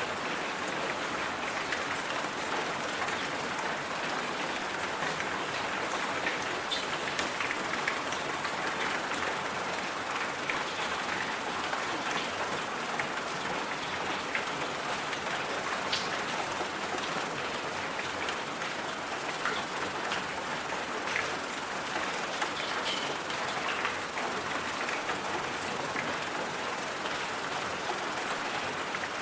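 Steady rain hiss with scattered faint drop ticks.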